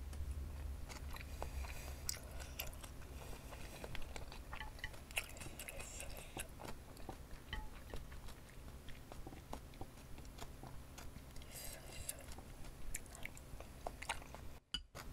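Close-up chewing of soft, saucy glass noodles, with many small wet mouth clicks and smacks, over a steady low air-conditioner hum. The sound cuts out for a split second near the end.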